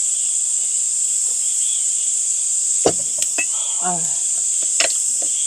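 Crickets trilling in a steady, high, continuous chorus. A few sharp clinks of tableware come about three and five seconds in, with a brief murmured voice between them.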